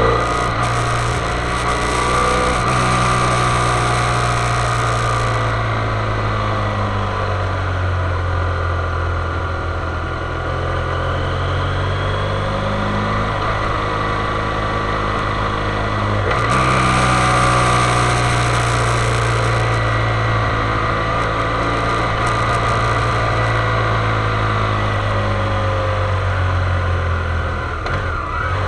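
Motorcycle engine running at fairly low revs, its pitch drifting slowly up and down as it rides downhill. A high hiss joins it for the first few seconds and again about two-thirds of the way through.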